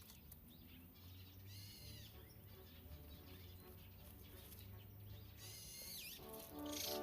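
Faint wild bird calls, short arched chirps and a downward-gliding call, outdoors at a feeder. Background music comes in about six seconds in.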